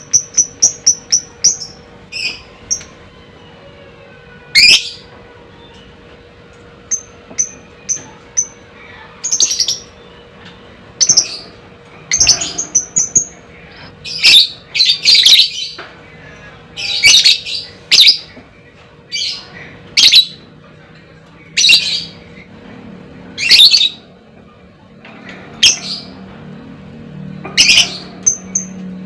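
Lovebird calling: a quick run of short high chirps at the start, then loud, shrill squawks and chattering calls every second or two.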